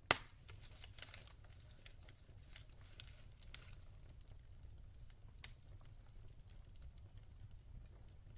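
Log fire crackling, scattered small snaps over a low steady rumble, with one loud pop just after the start and another sharp pop about five and a half seconds in.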